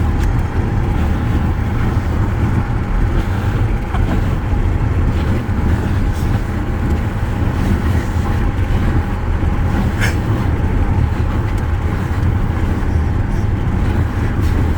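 Wind rushing through an open car window while driving, over a steady low rumble from the moving car.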